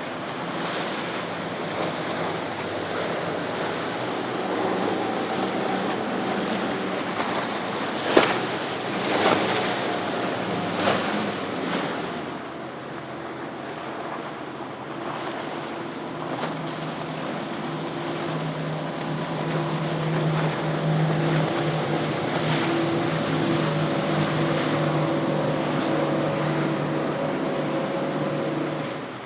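Outboard-powered sportfishing boats running past at speed, their engines droning louder in the second half, over the wash of waves and wake and wind on the microphone. A few sudden bursts of noise come about a third of the way in.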